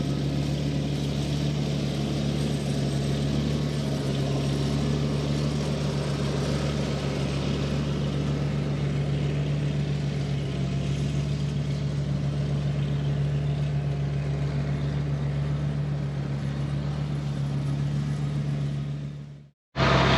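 Farm machine engine running steadily at a constant speed, a continuous hum. It cuts off suddenly near the end.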